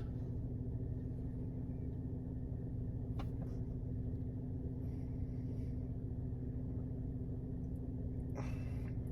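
Steady low hum of room tone, with a faint tick about three seconds in and a short rustle near the end.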